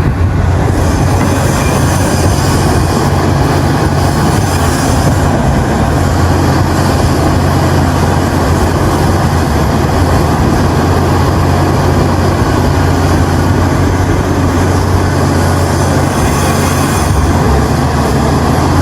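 Heavy diesel earthmoving machinery running steadily at a mine, a loud engine rumble with a constant low hum, the sound of excavators and dump trucks at work. A high hiss rises over it for a few seconds early on and again near the end.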